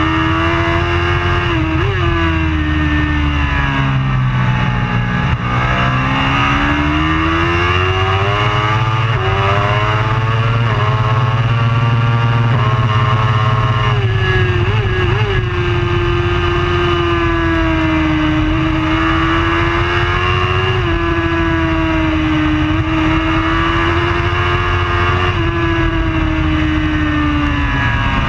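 Racing superbike engine at full race pace. One continuous engine note climbs and drops in pitch as the bike accelerates and slows, with a couple of quick blips of the throttle.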